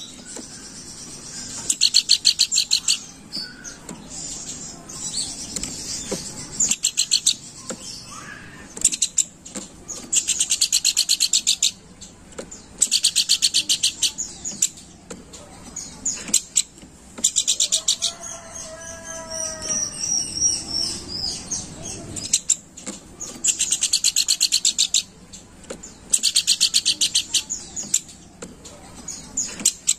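Pelanduk bukit (a babbler) singing: loud bursts of rapid, evenly repeated high notes, each lasting a second or two and coming every few seconds. About two-thirds of the way in, a lower drawn-out call and some high whistles come in between the bursts.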